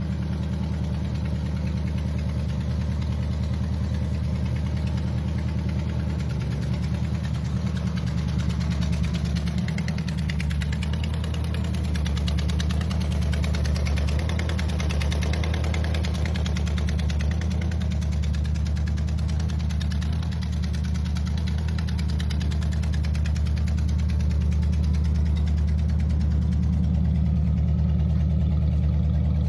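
1934 Ford Coupe street rod's engine running steadily at idle, a low, even engine note with no change in speed.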